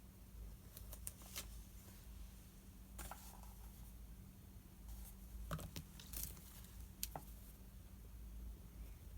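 Scattered short rustles and clicks of paper and pen being handled at a study desk, over a faint steady hum.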